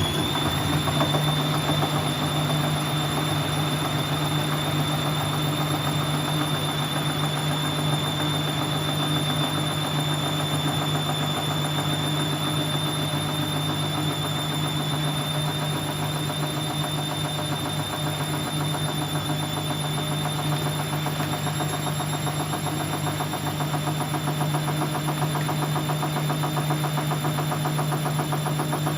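Siemens Siwamat C10 washing machine running at a steady high drum speed, as in a spin: a steady high motor whine over a low hum.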